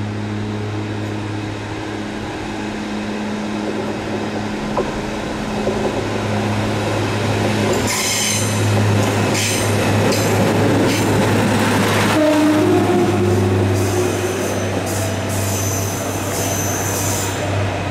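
Class 153 single-car diesel multiple unit pulling away and passing close by, its diesel engine giving a steady low drone that grows louder as it goes past. High-pitched wheel squeal from the curving track comes in about halfway through and again near the end.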